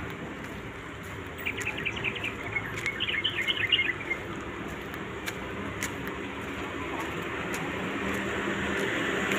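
A bird chirping, a quick run of short high notes for about two and a half seconds starting a second and a half in. Behind it is a steady outdoor background rumble that grows louder near the end.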